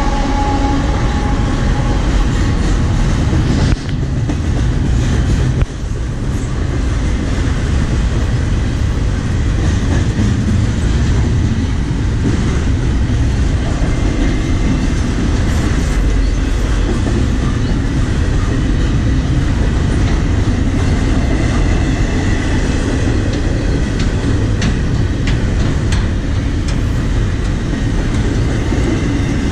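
Freight train of double-stack container well cars rolling past at a level crossing: a steady, loud rumble with wheels clattering on the rails.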